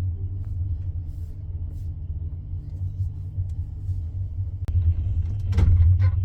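Steady low rumble of a passenger train, with a brief louder burst of noise near the end.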